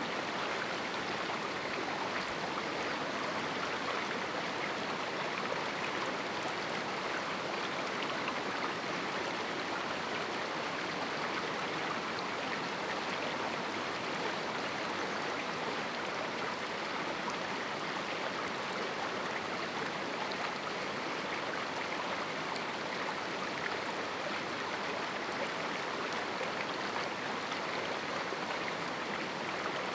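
Steady rushing of a river flowing through a small rocky canyon, an even, unbroken water noise.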